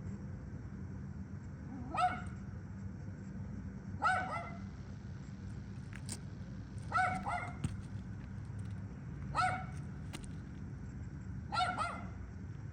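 A dog barking: single or doubled barks every two to three seconds, five times, over a steady low rumble.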